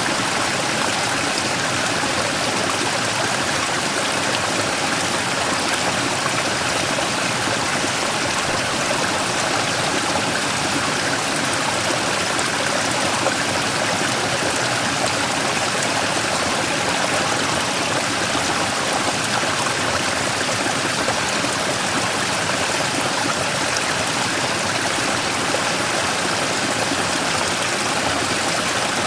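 Mountain stream rushing steadily over a large rock, with small cascades and gurgles: a continuous, even water rush.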